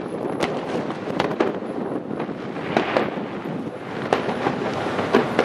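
Aerial firework shells bursting: a string of sharp, irregularly spaced bangs and crackles over a steady rushing background, with a thicker burst of crackling about three seconds in.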